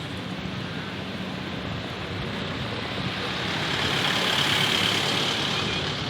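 An engine droning steadily over a wash of noise, growing louder about four seconds in and easing off near the end.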